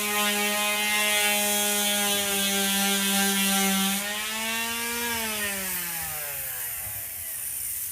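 Handheld electric power tool running at full speed while material is taken off a dashboard. About five seconds in it is switched off and winds down, its pitch falling steadily to a stop over about two seconds.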